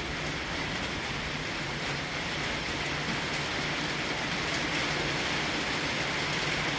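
Steady rain falling during a thunderstorm, an even hiss that grows slightly louder over the few seconds.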